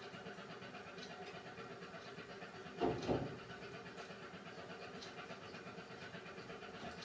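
Beko WMY81283LMB2 washing machine running its hand-wash cycle: a steady motor hum with faint regular ticks, and a louder double thump about three seconds in.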